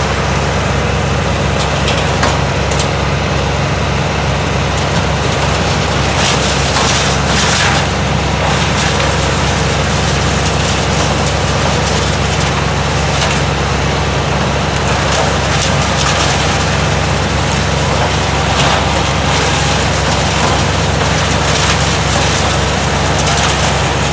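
Bandit 200+ XP wood chipper running steadily, its engine giving a constant low hum, with a few brief cracks of wood going through the chipper.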